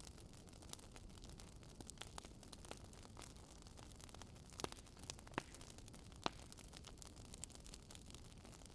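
Campfire burning quietly: a low steady rush of flame dotted with sharp crackles and pops from the burning wood, three louder pops a little past the middle.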